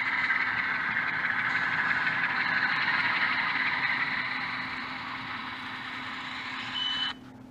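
Diesel engine sound from the ESU sound decoder in an HO scale Atlas U23B model locomotive, playing through the model's small speaker. It runs steadily, eases off somewhat past the middle and cuts off suddenly near the end.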